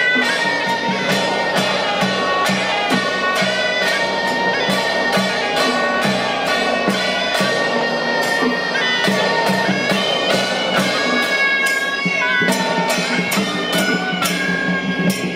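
Traditional Taiwanese temple procession music: suona reed horns playing a loud, continuous melody over a steady beat of drum and cymbal strokes, about three a second.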